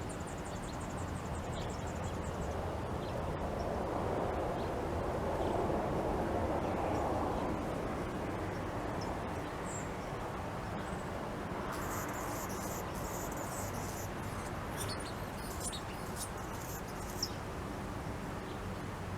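Small songbirds chirping: a quick high trill at the start, scattered single high chirps, and a few seconds of busy, overlapping high twittering about two-thirds of the way through. Underneath runs steady background noise that swells for a few seconds early on.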